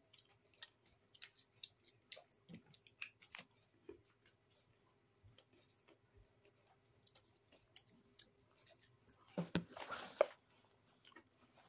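Close-up mouth sounds of a person chewing food, with small wet clicks and smacks scattered throughout. A louder noisy burst comes about nine and a half seconds in.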